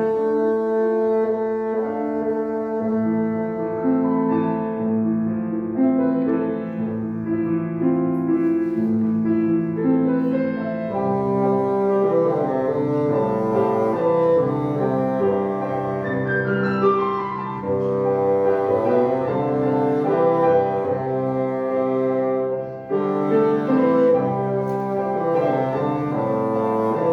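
Bassoon playing a melody with piano accompaniment, classical music.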